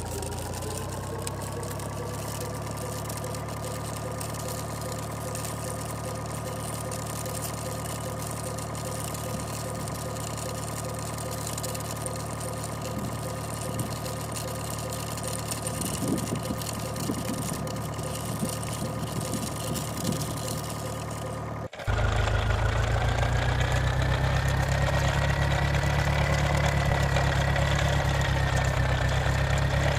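Vehicle engine running steadily, with a slight rise in pitch at the start and some irregular clatter in the middle. About two-thirds of the way through it cuts to a louder, lower engine with a high whine that slowly rises.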